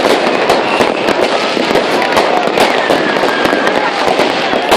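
New Year's Eve fireworks and firecrackers going off without a break: rapid overlapping bangs and crackling, with a few whistles falling in pitch.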